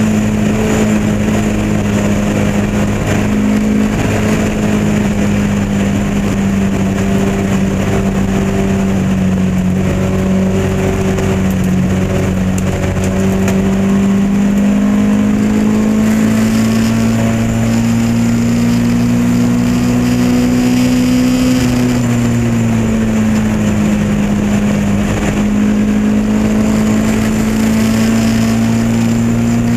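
Lotus Elan race car's engine running hard at high revs, its pitch climbing slowly, easing briefly a little past the two-thirds mark, then climbing again.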